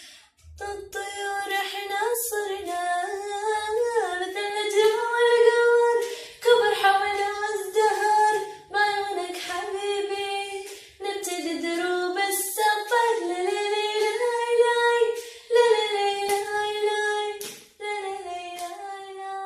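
A woman singing an Arabic love song unaccompanied. Her phrases have long held notes and short breaks between them.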